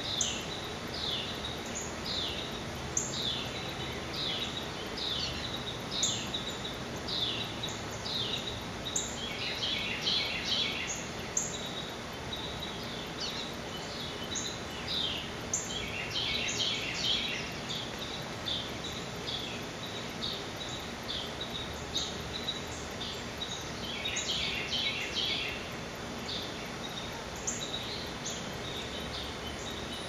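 Birds chirping: short, downward-sliding chirps come about once a second, with three denser bursts of rapid chirping about ten, sixteen and twenty-four seconds in, over a faint steady outdoor hum.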